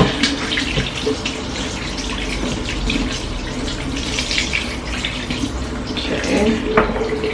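Tap running steadily with water splashing as hands are washed under it.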